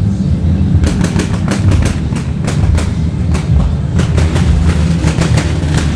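Motorcycle engine running loudly, with a rapid, irregular crackle of sharp pops starting about a second in and growing denser toward the end.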